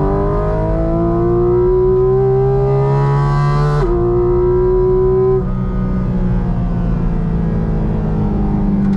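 Porsche 718 Cayman GT4 RS's 4.0-litre, 500 hp naturally aspirated flat-six at full throttle, heard inside the cabin: a high-pitched engine note climbing through the revs, a quick upshift about four seconds in, then a second climb. About five and a half seconds in the throttle comes off and the note turns quieter and steadier.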